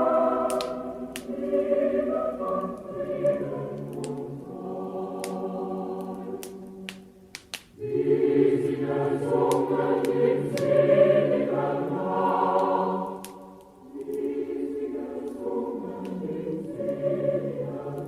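A choir sings a slow Christmas song in long held phrases, with a short break about halfway and another a few seconds from the end. Sharp crackles of a burning log fire are scattered through it.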